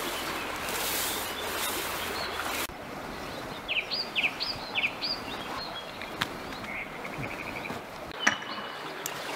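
A broad rustling hiss cuts off suddenly about three seconds in. Then wild birds call: a quick run of short rising notes, and a brief rapid trill a couple of seconds later.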